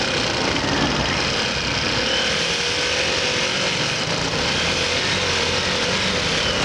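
Motorcycle running at road speed, a steady engine note under a dense rush of wind and road noise.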